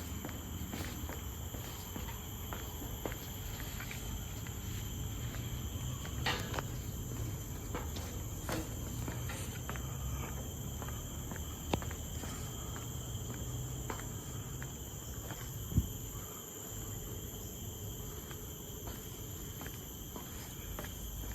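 Tropical forest insects holding a steady, high-pitched drone, with the walker's footsteps at a walking pace and a few sharper knocks.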